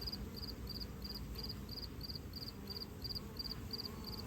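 A cricket chirping steadily, about three high chirps a second, each one a quick run of pulses, over a faint low buzz of honeybees at the hive entrance.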